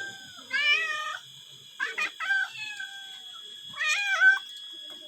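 Cats meowing, three separate meows spread a second or two apart, the first and last bending in pitch, with a few short clicks and chirps around two seconds in.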